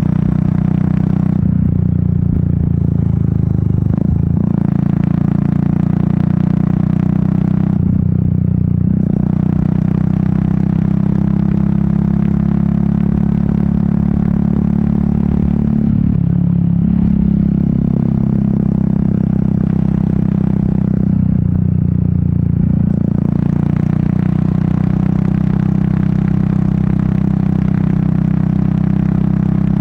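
Royal Enfield Meteor 350's 349 cc single-cylinder engine and exhaust running steadily on the move, heard from the rider's seat with wind noise. Four times the upper hiss drops away for a second or two while the engine note shifts, as the throttle is eased.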